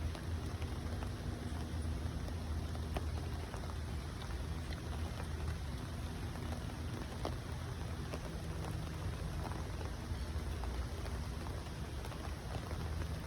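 Steady rain falling, with scattered small ticks over a constant low rumble.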